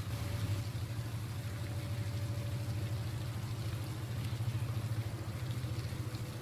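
Steady low rumble under a faint hiss.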